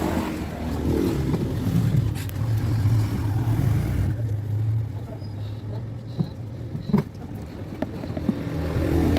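A motor running with a steady low hum that swells and eases, and a sharp click about seven seconds in.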